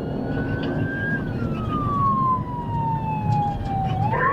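Police siren in a slow wail: it climbs, falls slowly over about three seconds, and starts climbing again near the end, over a steady low rumble.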